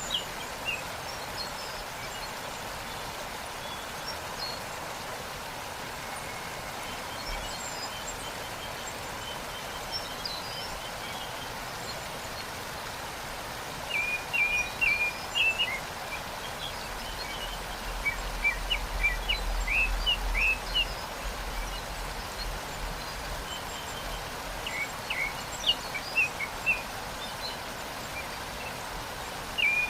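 Steady rush of a waterfall, with small birds chirping in quick runs of short, high notes that come in bursts: about fourteen seconds in, again around nineteen seconds, near twenty-six seconds and at the end.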